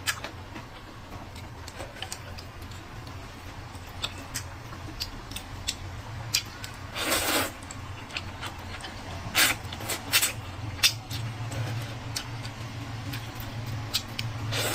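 Close-up eating sounds: scattered small clicks and smacks of chewing and utensils, with one longer noisy burst about seven seconds in, over a steady low hum.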